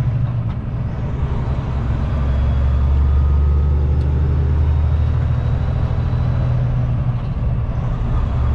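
Kenworth T660 semi truck's diesel engine and road noise heard inside the cab while driving on the freeway: a steady low drone that grows a little louder about two seconds in.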